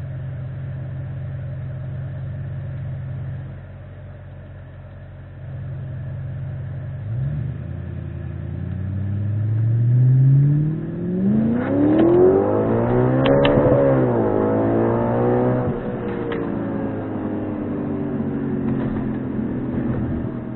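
Audi RS5's 4.2-litre V8 through a valved 2.75-inch cat-back exhaust, heard from inside the cabin: a steady drone, then hard acceleration about seven seconds in, the engine pitch climbing for several seconds to a peak and then falling back to a steadier drone. A couple of sharp clicks sound near the peak.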